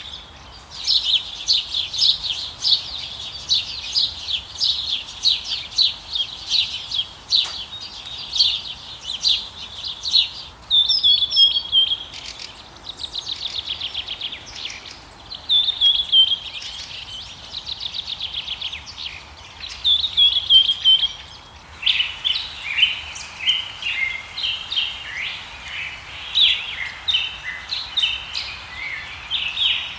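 Birds singing and calling: dense high chirps and short falling whistles repeated over and over, with a fast even trill in places. The chorus changes abruptly twice, about ten and twenty-two seconds in.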